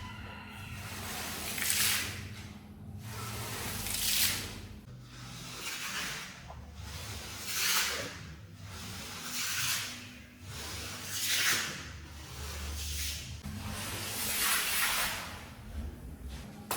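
Rug-cleaning strokes on a wet, muddy shag rug: a hissing swish about every two to three seconds.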